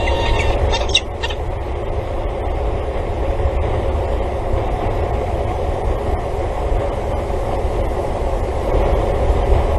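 Steady low rumble and hiss with a short, harsh bird call about a second in.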